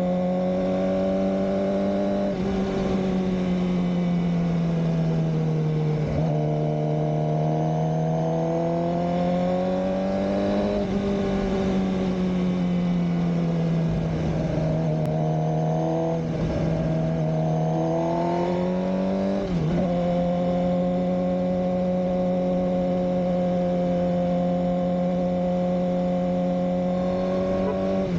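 2007 Suzuki GSX-R600 K7's inline-four engine running on the move, its pitch rising and falling slowly with the throttle, with a few sudden dips and jumps in pitch along the way.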